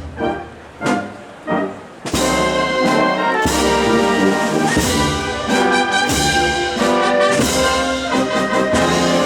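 Spanish processional wind band with prominent brass playing a march. A quieter passage with a few accented chords gives way to the full band about two seconds in.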